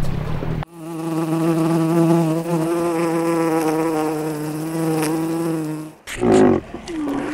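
Honeybees buzzing on the comb: a steady, slightly wavering hum. It starts just under a second in and cuts off abruptly about six seconds in, followed by short loud calls from another animal.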